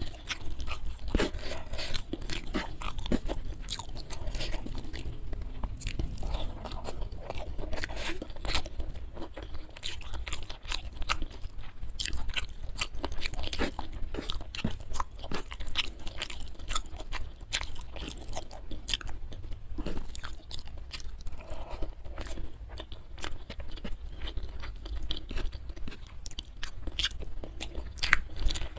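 Close-miked eating sounds: a person chewing and crunching food eaten by hand, with many sharp mouth clicks and smacks coming irregularly throughout.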